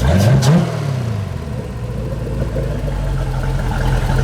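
Mercruiser 383 Magnum stroker V8 with multi-port fuel injection, blipped once. The revs climb sharply for about half a second, fall back over the next second, and settle into a steady, even idle with no misses.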